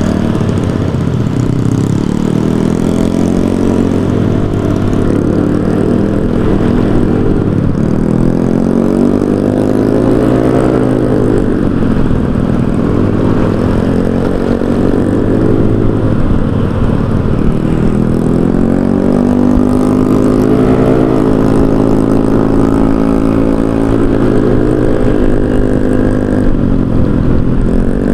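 Honda Vario 125 scooter's single-cylinder engine through an aftermarket racing silencer while riding. The exhaust note rises and falls again and again as the throttle is opened and eased off.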